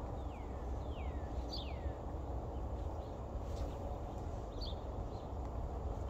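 Birds calling with several short chirps that slide down in pitch, over a steady low rumble.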